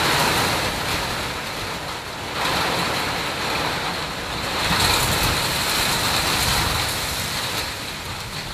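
Heavy rain falling: an even hiss that swells and eases every couple of seconds.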